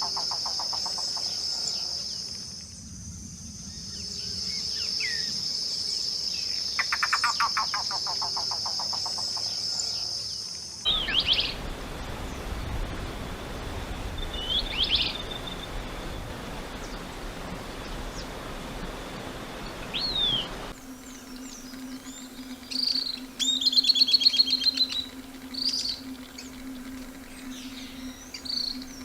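Wild forest birds singing over a steady high-pitched insect drone: twice a rapid trill falls in pitch over about two seconds, then short whistled calls and chirps from several birds follow as the recording changes.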